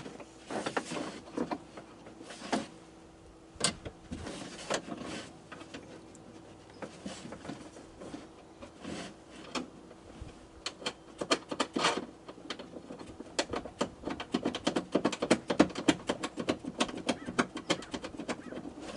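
Light metallic clicks and taps of a nut being worked onto a door-handle mounting bolt inside a pickup's door, turning into fast, dense clicking in the second half.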